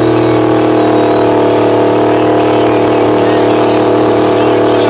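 A truck engine running steadily at a constant pitch, with no rise or fall in revs.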